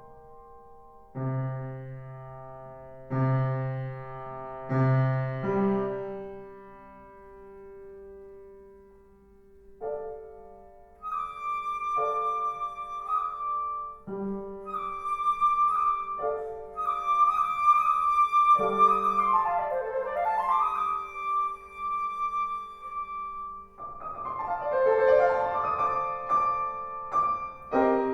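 Transverse flute and piano playing classical chamber music. The piano opens alone with struck low chords, and from about eleven seconds the flute comes in with long high notes and quick ornaments over the piano's chords.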